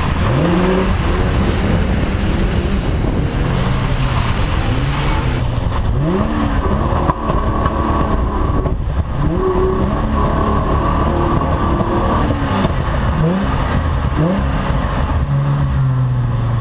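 Holden VY Commodore ute engine revving up and dropping back again and again, running rough and misfiring on its last drift run. The owner suspects a heat-failed crank angle sensor.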